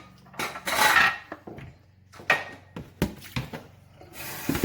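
Knocks and clatter of things being moved about in a kitchen sink, then running water from the tap starting near the end.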